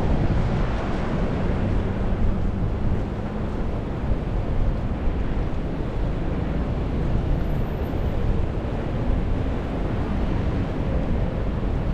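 Strong wind rumbling on the microphone in gusts, over steady rain and street traffic noise.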